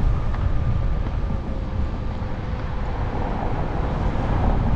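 Wind rumbling on the microphone while riding, over steady road noise, with a faint steady whine underneath.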